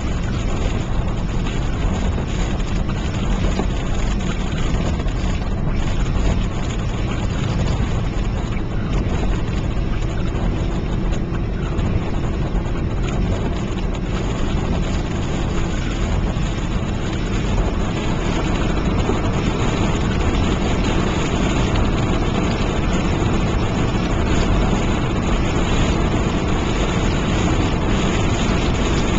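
Steady driving noise heard from inside a moving car, with a mix of hail and rain hitting the car.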